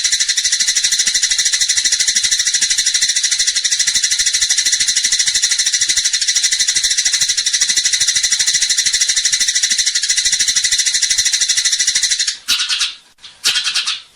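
Eurasian tree sparrows (burung gereja) chattering in fast, unbroken chirps, the excited 'fighting' call used as a songbird training recording; the chatter breaks off briefly twice near the end.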